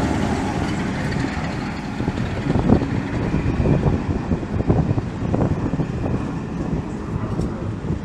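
A train running along the track, its wheels giving irregular clacks over the rail joints from about two and a half seconds in.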